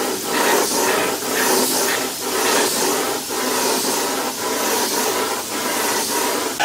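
Wood being worked by hand in back-and-forth strokes: a hissing rasp that swells and dips about twice a second.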